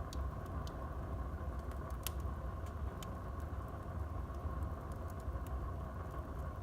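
Wood fire burning in a fireplace: a steady low rumble of the flames with a handful of short, sharp crackles and pops from the burning wood, the loudest about two seconds in.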